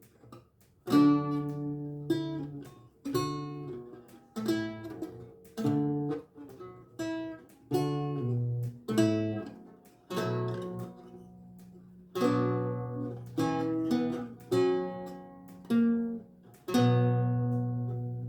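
Renaissance lute with gut strings played slowly: a run of plucked chords and single notes, each left to ring and die away, with short pauses between phrases.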